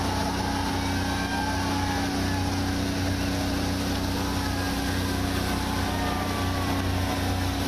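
Motorboat engine running at a steady, even drone.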